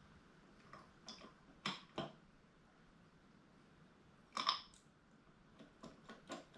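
Scattered light clicks and knocks of hand tools and small metal engine parts being handled: a few near the start, the loudest a little after the middle, and a quick run of small ones near the end.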